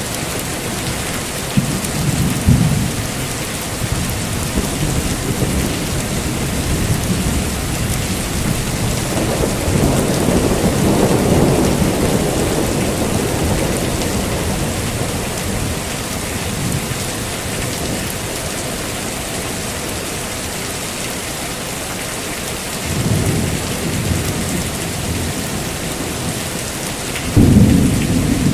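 Heavy rain falling steadily, with rolling thunder rumbling several times: a brief rumble a couple of seconds in, a long one through the middle, another a few seconds before the end, and a sharper, louder clap right at the end.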